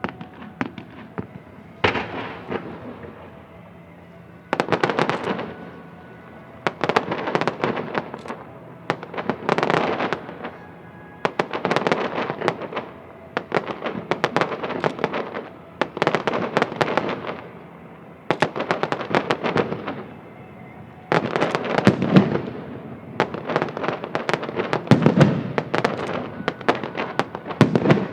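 Aerial fireworks going off one after another, about fifteen crackling volleys in quick succession, each a dense cluster of sharp pops lasting about a second.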